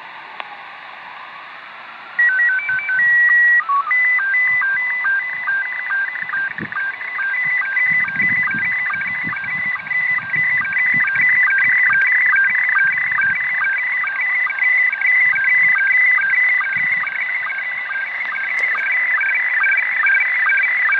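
Slow-scan television (SSTV) signal received over shortwave radio: about two seconds in, a burst of steady start-up tones breaks out of the static hiss, then it goes on as a fast warbling stream of beeps hopping between a few pitches.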